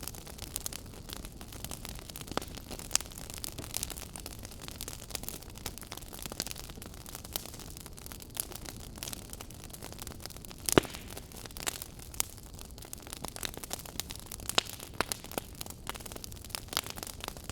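Wood fire burning in a fireplace: a steady low hiss of flames with irregular crackles and small pops, the loudest pop about eleven seconds in.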